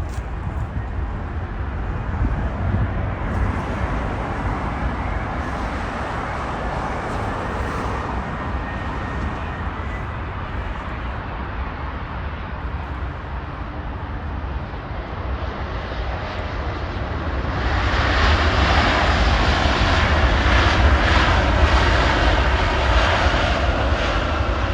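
Airbus A350-900 jet engines, Rolls-Royce Trent XWB turbofans, running with a steady noise that grows louder and brighter about 17 seconds in.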